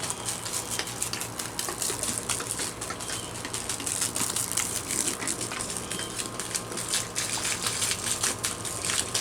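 Vinegar gushing out onto a grass mat to soak it: a steady watery hiss with many small spatters of liquid hitting the surface.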